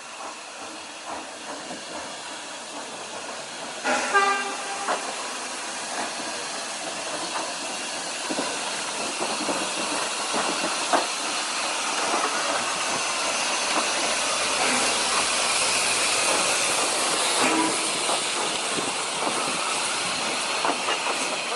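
Steam train hissing as it runs, with a short whistle toot about four seconds in; the hiss grows louder through the rest, with scattered clicks of the wheels on the rails.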